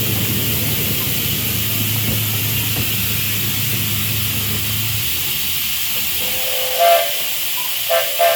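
Steam locomotive hissing steadily, with a low hum that drops out about five seconds in. Near the end its steam whistle gives short toots: one, then two more in quick succession.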